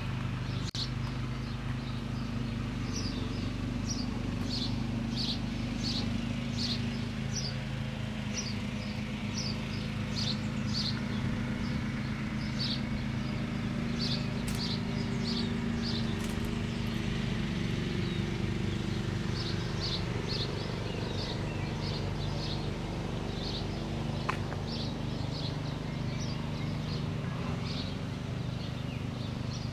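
Birds chirping, many short high chirps repeating throughout, over a steady low hum.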